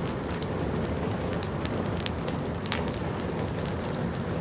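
Large bonfire burning: a steady rush of flames with scattered sharp crackles and pops at irregular times.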